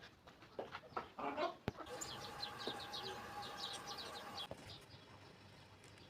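Chickens clucking, with quick high chirping calls that grow dense from about two seconds in and cut off suddenly about four and a half seconds in.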